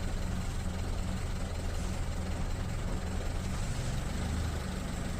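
A steady low mechanical hum with an even hiss over it, cutting off abruptly at the very end.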